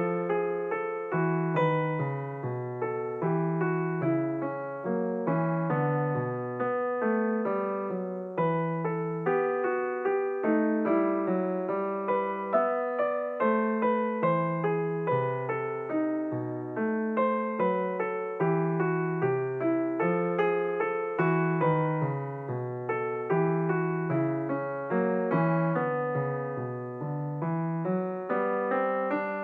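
Background piano music: a gentle melody of single notes and chords, each note struck and then decaying.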